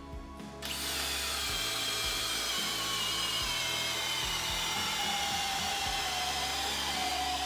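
Cordless drill driver starting up about a second in and running continuously with a high whine, its pitch sagging slightly and then holding steady.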